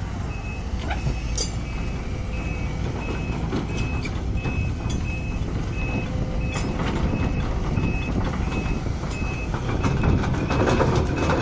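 Sumitomo excavator running, its travel alarm giving short high beeps about one and a half times a second over the diesel engine, which grows louder near the end: the machine is moving.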